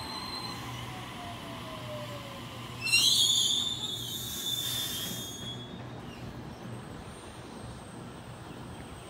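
Double-deck electric passenger train running past: a whine falls steadily in pitch over the first couple of seconds, then a sudden loud, high squeal with a hiss about three seconds in lasts a couple of seconds, before the sound settles to a low rumble.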